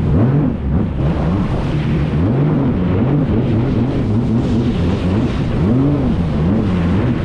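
Jet ski engine running, its pitch swinging up and down over and over as the throttle changes, over a steady rushing hiss.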